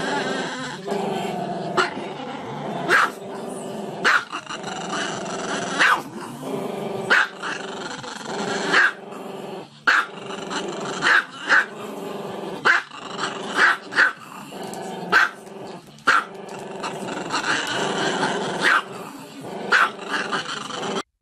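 Small long-haired dog with its muzzle raised, vocalizing continuously in long wavering cries, broken by short sharp barks about once a second.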